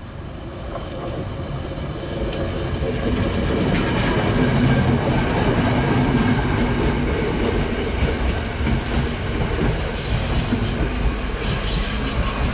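Diesel train approaching and passing, its engine rumble and the clatter of its wheels over the rail joints growing louder over the first few seconds and then holding steady. A brief high wheel squeal comes near the end.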